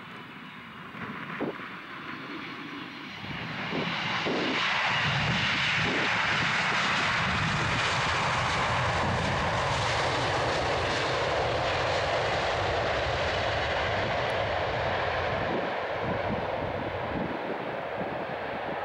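Jet engine roar of a Delta Air Lines Boeing 767-400 passing close by, swelling over the first few seconds, then holding steady and easing slightly near the end.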